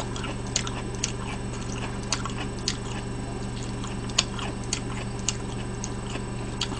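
A person chewing a mouthful of pizza close to the microphone, with small wet mouth clicks and smacks at irregular intervals. A steady low electrical hum runs underneath.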